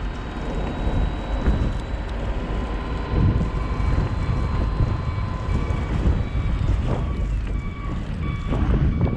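Vehicle driving through a snowstorm: a steady low rumble of engine and tyres with wind noise, and a faint high whine that falls away about seven seconds in.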